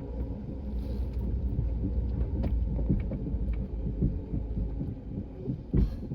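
A vehicle engine running with a low, steady rumble, with scattered small knocks and clatters and one louder thump near the end.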